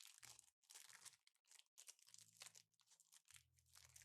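Faint crinkling and rustling of packaging handled by hand, with low, held bass guitar notes coming in faintly about two seconds in.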